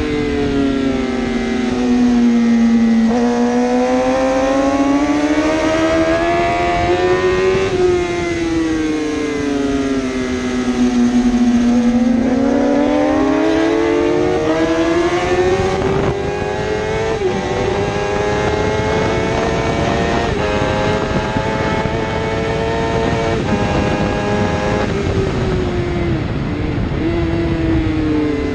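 A 1000cc superbike engine at racing speed, its pitch falling and rising over several seconds as it slows and accelerates. In the second half it climbs in pitch with three quick breaks as it shifts gear.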